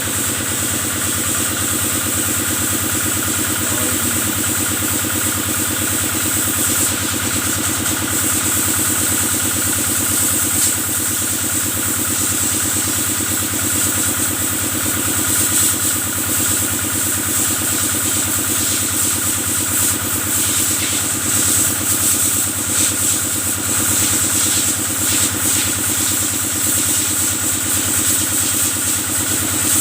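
Kubota engine running steadily at an even speed, driving the water sprayer used to wash cattle.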